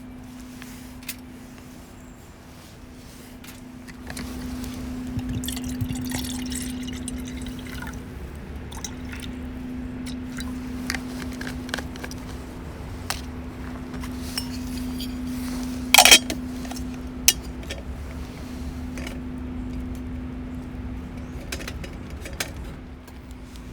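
Liquid pouring and dripping for a long stretch, with scattered small clicks. A sharp knock about two-thirds of the way through is the loudest sound.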